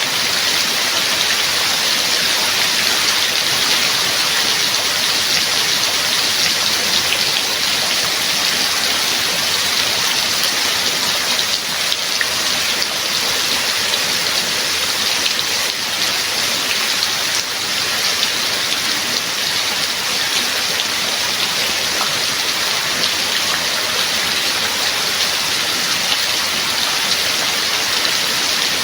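Steady rain falling, a continuous even hiss with many small drops pattering on a surface.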